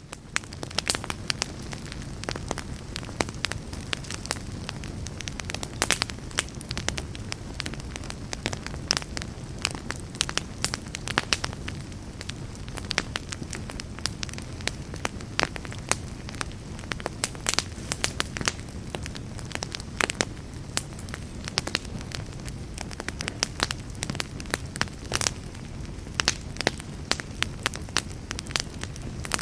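Campfire burning, with frequent irregular crackles and pops over a steady low rumble of flames. It rises quickly out of near silence at the very start.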